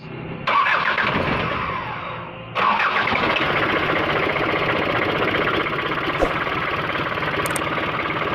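Non-turbo car engine blowing through a homemade 'wolf' howling exhaust. It surges sharply twice, about half a second and two and a half seconds in, then runs on steadily. The builder finds that it still falls short of the intended howl.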